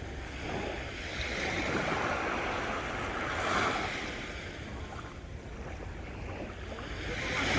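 Sea waves washing onto the shore. The surf noise swells up over about three seconds, eases off, then rises again near the end, over a low steady rumble.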